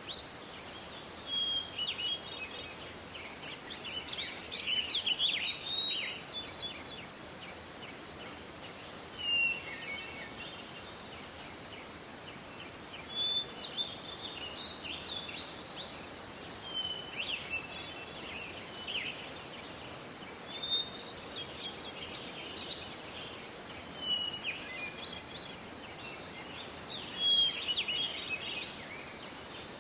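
Several songbirds singing at once: overlapping short chirps, trills and whistled phrases. A thin high steady note comes and goes every several seconds, over faint background hiss.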